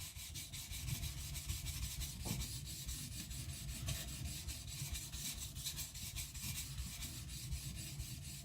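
Steel kiridashi blade being ground on a coarse 220-grit whetstone with repeated back-and-forth strokes, a steady rhythmic scraping, as the secondary bevel is ground away to flatten the edge.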